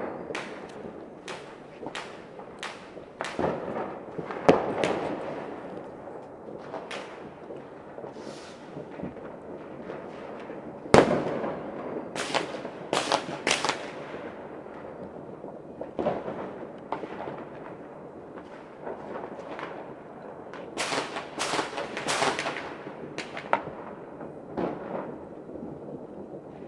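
New Year fireworks going off in many places across a city: irregular sharp bangs and crackling, with the loudest bang about eleven seconds in and dense clusters of bangs soon after and again near the end.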